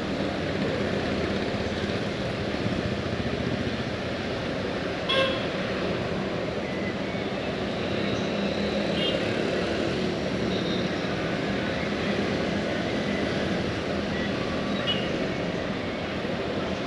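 Steady vehicle noise, with a few faint short high tones and a sharp click about five seconds in.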